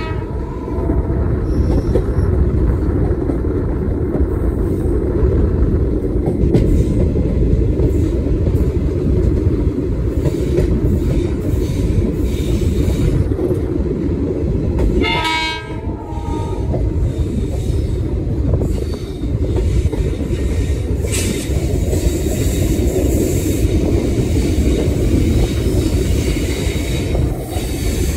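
Passenger train running at speed: a steady rumble of wheels on the rails with clickety-clack, heard from an open coach door. The diesel locomotive's horn sounds once about halfway through, for about a second and a half.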